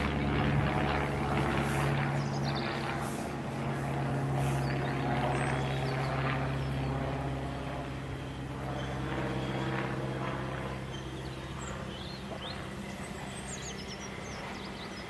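A train's low, steady drone that slowly fades, with faint bird chirps.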